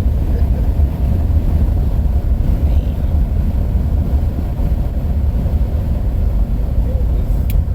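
Loud wind buffeting and road rumble from riding in a fast-moving car. A brief click comes near the end.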